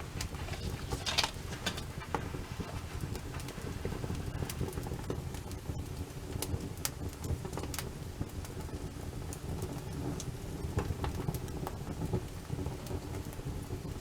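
Wood campfire burning, crackling with scattered sharp pops over a steady low rumble, with a quick cluster of pops about a second in.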